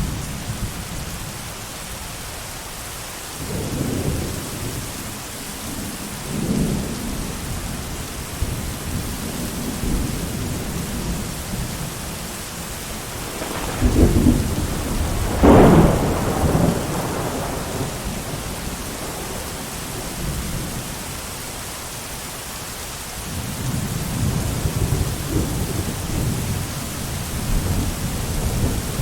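Steady heavy rain with rolling thunder that swells and fades several times. The loudest, sharpest thunderclap comes a little past halfway, and low rumbling builds again near the end.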